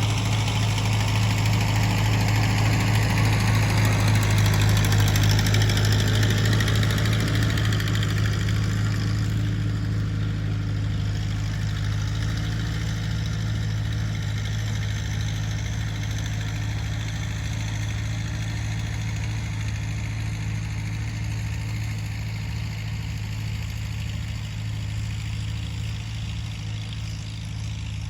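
Tractor engine running steadily, loudest about five seconds in and slowly growing quieter after that.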